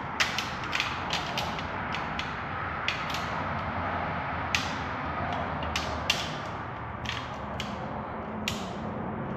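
Scattered light metallic clicks and taps, about a dozen at irregular intervals, as a thin exhaust manifold gasket is worked over the studs on a Ford 3.5 EcoBoost cylinder head, over a steady background hiss.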